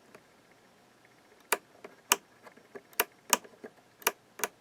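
Sharp clicks of a removed amplifier power switch being worked on and off by hand, about six of them at irregular half-second intervals, starting about one and a half seconds in. One side of the switch no longer makes contact.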